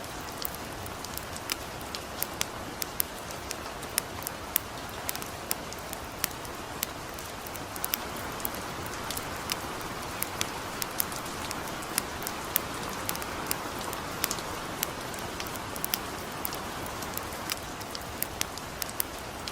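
Steady light rain hissing, with a campfire crackling over it in many sharp, irregular pops.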